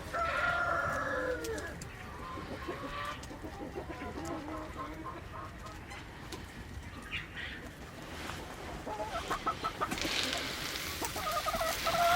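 Chickens clucking and calling: a longer, drawn-out call at the start, then scattered short calls, and a quick run of repeated clucks near the end, joined by a hissing rustle.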